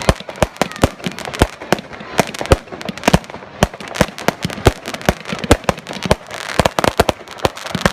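Fireworks display: rapid, irregular bangs of shells bursting, several a second.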